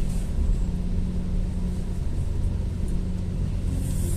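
Steady low rumble heard inside a GO Transit passenger coach as the locomotive-hauled train runs, with a faint steady hum under it and a brief high hiss near the end.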